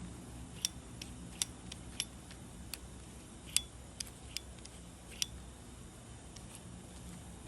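Honda Live Dio AF34 scooter's 50 cc two-stroke single-cylinder engine idling with a low, steady hum, over which come irregular sharp ticks, a couple a second: the abnormal engine noise under examination.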